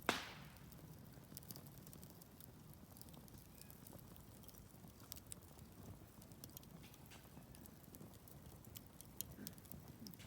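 Wood fire crackling, with a scatter of small pops and one loud, sharp pop right at the start.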